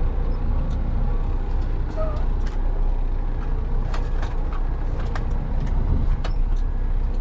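Truck engine running steadily, a low rumble, with scattered sharp clicks and knocks through the middle.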